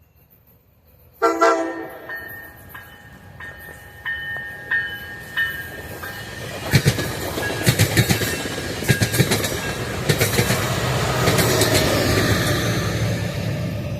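Passenger train horn sounds briefly about a second in, followed by a bell dinging at an even pace. From about the middle on, the train passes close by with a loud rumble and clickety-clack of wheels over the rail joints.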